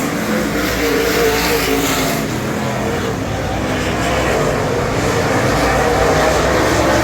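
Super late model's 422 cubic inch Ford V8 running hard at race speed. Its pitch falls about two seconds in, then climbs again.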